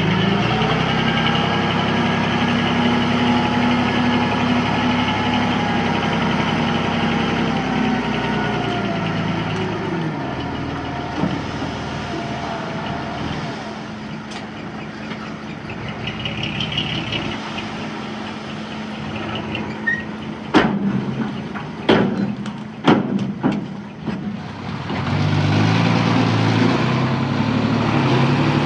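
Heavy diesel engine running steadily, then dropping in pitch and easing off after about nine seconds. Several sharp knocks come a little after two-thirds of the way through, and the engine picks up again near the end.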